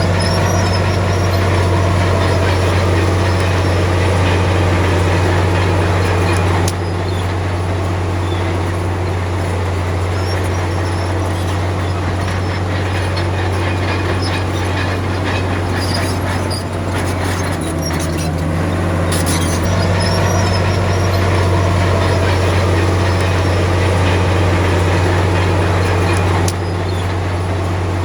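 Diesel engine of heavy earthmoving machinery, likely a bulldozer, running steadily with a strong low hum. The sound drops abruptly about a quarter of the way in and again near the end.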